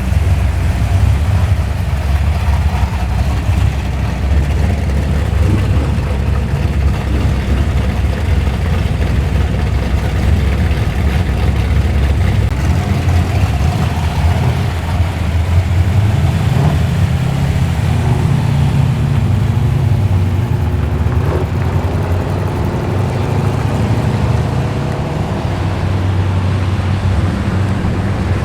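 Muscle car engine running close by, a loud, steady low rumble.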